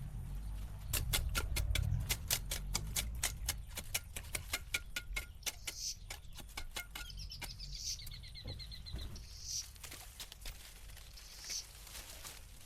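A rapid run of sharp clicks and taps, densest in the first half, with short high bird chirps and a brief trill of bird calls in the second half.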